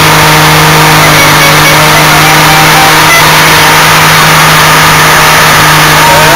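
Car engine held steadily at high revs during a burnout, very loud.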